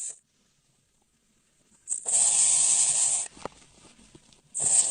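An animal hissing twice, each hiss over a second long and about two and a half seconds apart.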